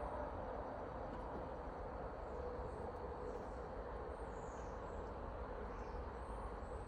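Steady outdoor background hiss with a few faint, high bird chirps.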